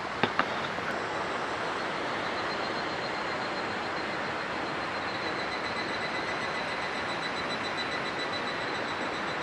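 Sazae (turban shells) grilling whole over a campfire, their juices bubbling and sizzling in the shells as a steady hiss. Two light clicks come near the start.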